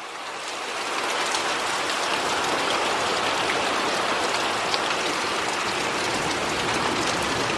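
Heavy rain pouring down in a thunderstorm downpour. It swells over about the first second and then holds at a steady hiss.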